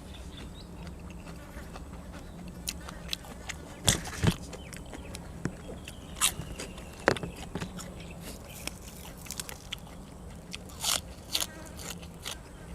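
Close-up eating sounds: a person biting and chewing grilled cuttlefish and raw vegetables, with sharp crunches scattered through, the loudest about four and seven seconds in and a pair near the end, over a steady low hum.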